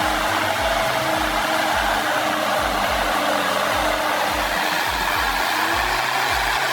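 Steady mechanical whirring from heavy machinery running continuously, over background music with a regular low beat about twice a second.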